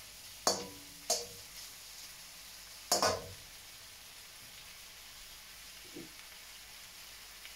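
Diced beef sizzling as it browns in a steel wok, a faint steady hiss. A metal spatula clanks against the wok three times in the first three seconds, the last as it is set down to rest in the pan.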